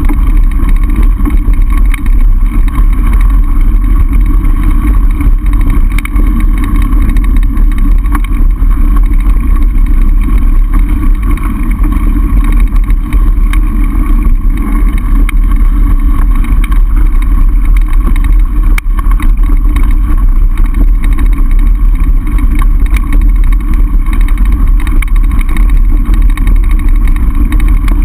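Steady, very loud wind rumble on a camera microphone riding on a mountain bike, with a fainter steady hum over it.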